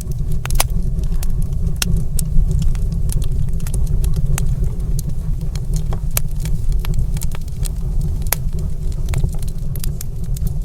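Wood fire crackling in a stone fireplace: irregular sharp pops and snaps over a steady low rumble.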